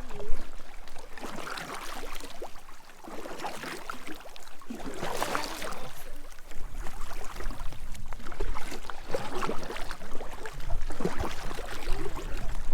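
Kayak paddle strokes swishing and splashing in the water, coming and going every second or few, with wind rumbling on the microphone, heavier in the second half.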